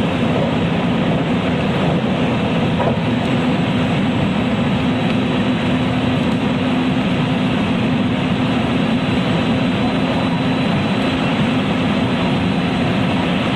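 Running noise inside a JR West 223 series motor car (KuMoHa 223-3016) travelling at steady speed: a continuous rumble of wheels on rail with a steady hum, unchanging throughout.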